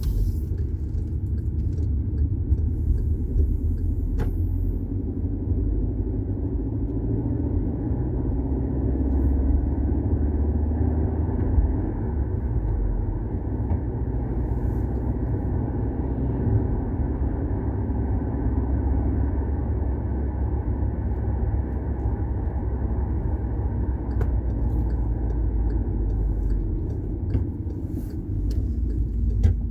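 Volkswagen Golf 6 TSI on the move: a steady low rumble of engine and road noise.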